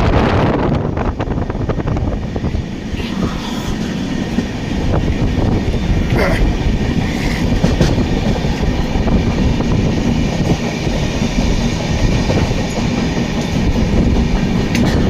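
Moving train running on the rails: the steady, loud rumble and clatter of wheels and carriage.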